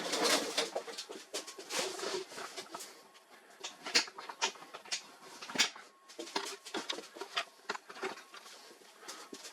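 Irregular clicks, taps and light knocks of plastic and metal laser-printer parts being handled and worked on, with a louder rattle of handling at the very start.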